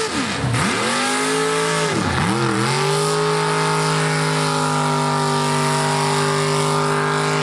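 Super-mini pulling tractor's V8 engine at high revs. The revs dip sharply and climb straight back twice in the first few seconds, then hold steady and high as the tractor pulls.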